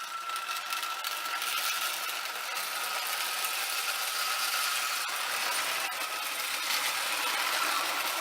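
Marx No. 999 toy train engine's electric motor whirring with a steady whine, the wheels rattling on the rails, building up over the first couple of seconds. The engine is struggling under its load, its drivers having no traction tire to grip the rails.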